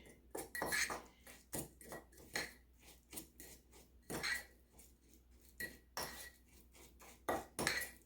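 A fork scraping and clinking against a bowl in quick, irregular strokes, some strikes leaving a short ring, as soft butter is worked into a brown-sugar crisp topping.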